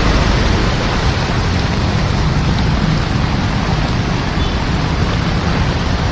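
Heavy rain falling steadily, a dense even hiss with a low rumble beneath it.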